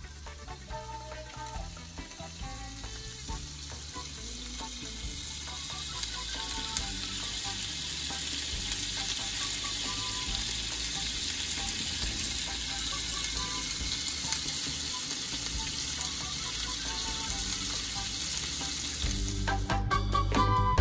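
Chicken adobo sizzling in its sauce in a stainless steel skillet, a steady frying hiss that builds over the first several seconds and then holds.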